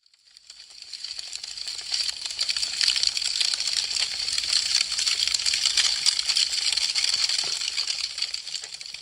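Wood fire crackling: a dense run of sharp pops and snaps that fades in from silence at the start, holds a steady crackle through the middle, and fades down near the end.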